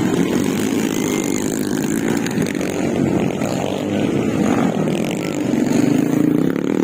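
Underbone motorcycle engine revving on a motocross track, its pitch rising and falling with the throttle and climbing again near the end.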